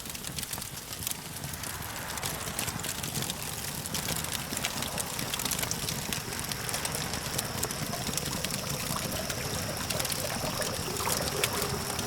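Campfire crackling with frequent small pops over a steady low rumble of distant traffic. About halfway through, a steady thin high-pitched tone joins in.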